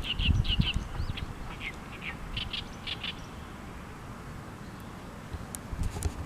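A small bird calling, a quick series of short high chirps in pairs and runs over the first three seconds, then stopping, over a low wind rumble.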